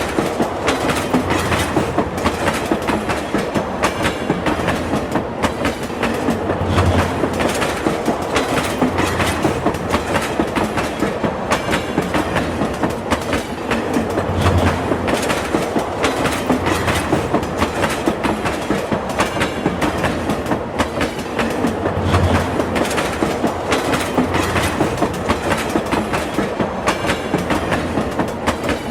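Train wheels clattering over the rails in a steady clickety-clack, with a low thump coming back about every seven to eight seconds.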